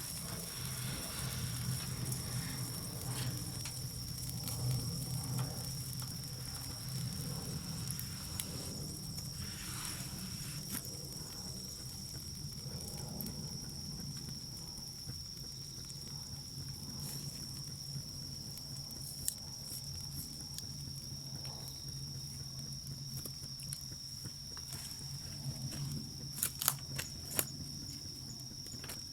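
An insect, such as a cricket, singing one steady high-pitched note without a break, over a low steady hum. A few sharp clicks come near the end.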